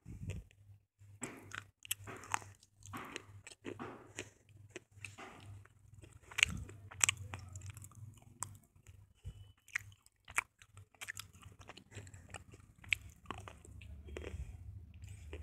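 Slate pencils being bitten and chewed close to the microphone: irregular, crisp crunches, several a second.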